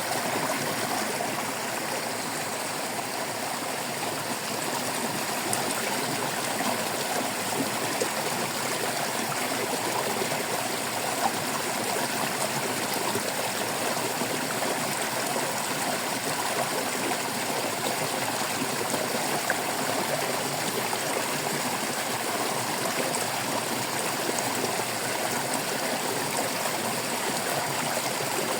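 Water flowing and trickling in a stream, a steady babble without pause.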